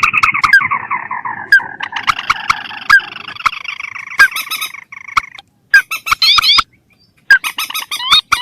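Recorded lure call of rails and crakes (mandar, pelan and tikusan): a long chattering call that falls in pitch, then after a short pause, quick bursts of short rising notes with sharp clicks.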